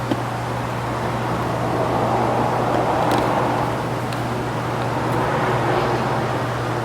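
A steady low hum with a noisy wash over it, and a few faint clicks of plastic trim being handled.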